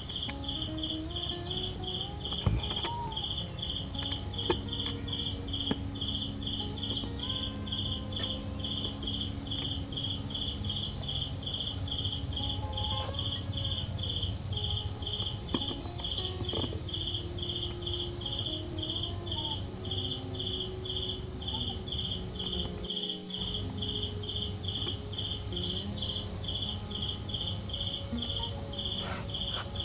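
Insects chirping: an even, high pulsed chirp about three times a second over a continuous high buzz and a low hum, with a few sharp clicks in the first six seconds.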